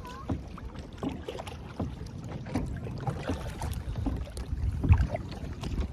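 Kayak being paddled: irregular splashes and drips from paddle strokes, with short knocks over a steady low rumble.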